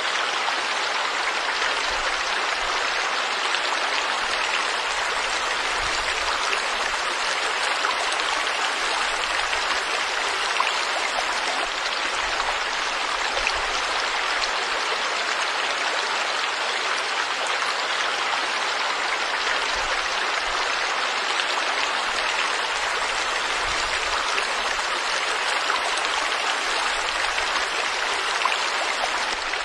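Stream water flowing steadily over rocks: a constant rushing with fine splashing and bubbling.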